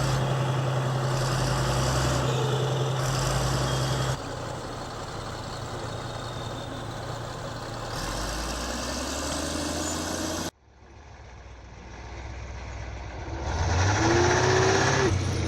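Heavy vehicle engines running across several short clips, with abrupt changes about four and ten seconds in. After a brief quiet moment, an engine revs up with rising pitch near the end.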